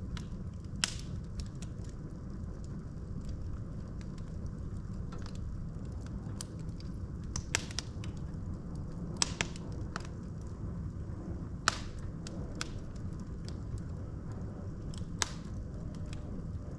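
Wood logs burning in a fireplace, crackling with irregular sharp pops over a steady low rumble of the flames; a handful of pops stand out louder than the rest.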